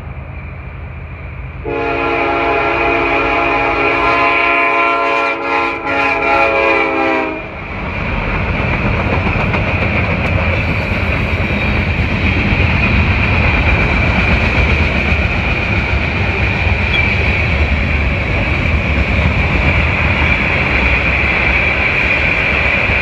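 CSX freight train's locomotive air horn sounds a long blast, then a run of short choppy blasts. About seven seconds in the horn stops and the steady noise of the passing train takes over: a consist of several diesel locomotives running under power, then hopper cars rolling over the rail joints.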